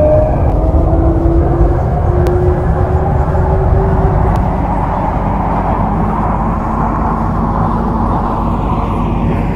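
MTR Kwun Tong line C-Train electric train accelerating. The traction motor whine rises slowly in pitch over the first few seconds, over a steady rumble of wheels on the rails, then settles into steady running noise.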